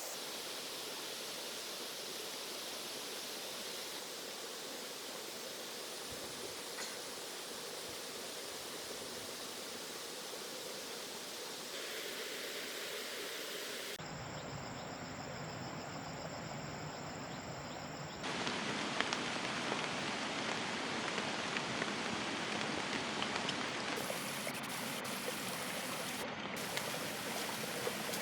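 Steady rushing of running water with insects, the texture changing abruptly a few times and louder in the last third.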